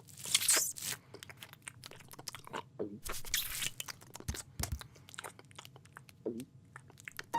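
Cartoon foley of crunching and chewing: irregular crisp crunches and clicks, with louder crunchy bursts just after the start and about three seconds in, and two short falling squeaks.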